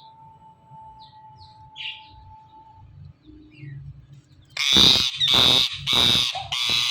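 Ring-necked parakeet making faint short chirps, then, past halfway, breaking into a run of loud repeated screeching calls, about two a second.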